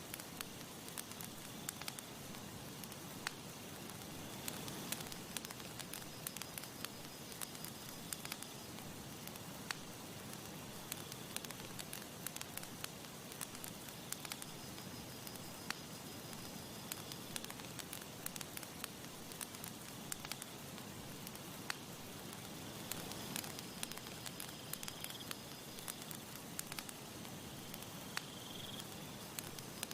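Wood campfire burning, with frequent sharp crackles and pops over a soft steady hiss. Faint high chirping tones come and go in the background.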